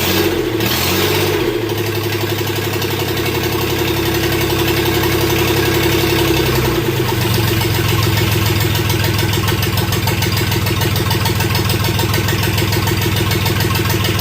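Rebuilt diesel engine of a Mustang skid steer running, its speed swinging up and down in the first couple of seconds, then dropping about seven seconds in to a lower, steady idle.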